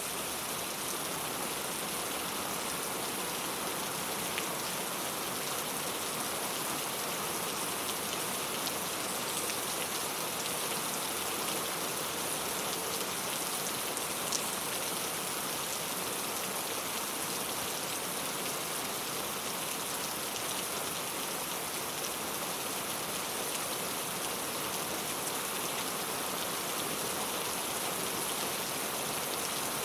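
Steady rain falling on a clay tile roof, an even hiss with a couple of sharper single drop ticks.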